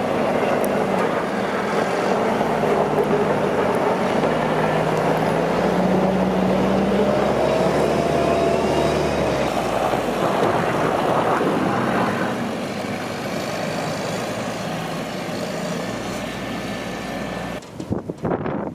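Motor vehicle engine running over road noise, its pitch shifting a little. Near the end it gives way to gusty wind buffeting the microphone.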